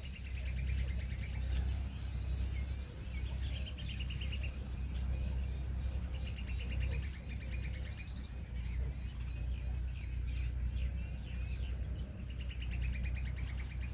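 Small birds chirping, with a quick trill of rapid notes about a second long repeated every few seconds, over a steady low rumble.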